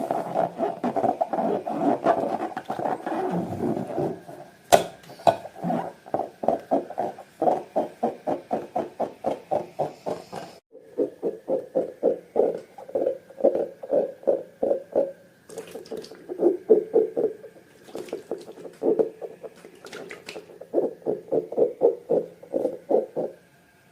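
Slime being squeezed and kneaded by hand, squelching in a steady rhythm of about three squishes a second, denser and more continuous for the first few seconds.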